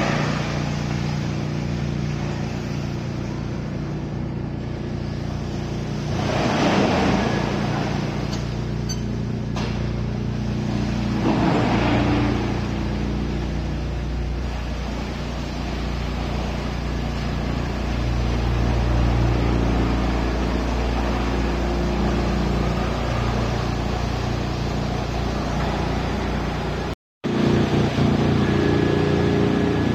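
Heavy-duty drum wood chipper running with a steady mechanical drone. It swells into two louder, noisy surges of chipping about six and eleven seconds in.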